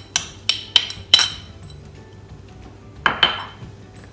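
A utensil clinking against a dish as ingredients are added to a bowl: four quick ringing knocks in the first second or so, then a longer scraping clatter about three seconds in.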